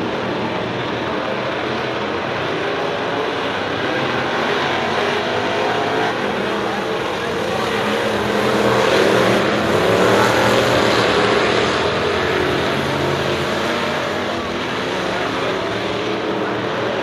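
Several race cars' engines running at speed on the track, the sound swelling as the pack passes closest about halfway through and then easing off again.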